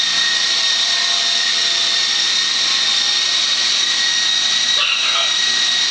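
Radio-controlled model helicopter hovering steadily, its motor and rotors giving a continuous high whine over a rushing hiss. The hover is near stable after the swashplate has been levelled.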